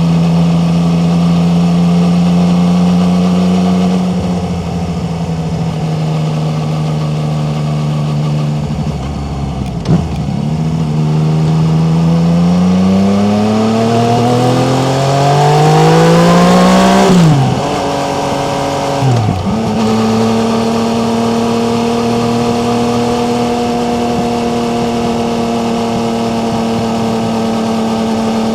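Yamaha MT-09's three-cylinder engine under way, cruising steadily at first, then easing off with the revs falling. About halfway through it accelerates with the revs climbing for several seconds. Two quick drops in revs follow as it shifts up, and it settles into a steady cruise at a higher pitch.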